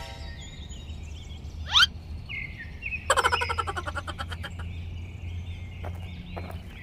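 Forest ambience of birds chirping, with a short rising whistle about two seconds in and a rapid rattling run of clicks about three seconds in that fades over a second and a half.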